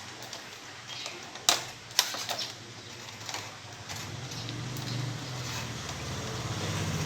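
Two sharp plastic clicks about half a second apart as a motorbike's plastic body panel is pressed onto its mounts, over light handling noise. From about four seconds in, a motorbike engine's low running sound rises in the background.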